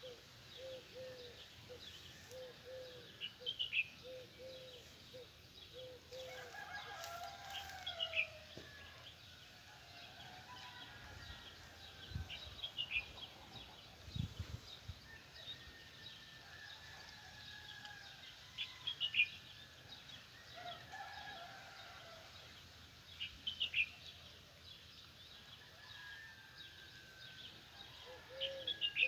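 Morning birdsong: small birds give sharp, falling chirps every few seconds, with a run of short repeated notes near the start. A rooster crows at a distance a couple of times.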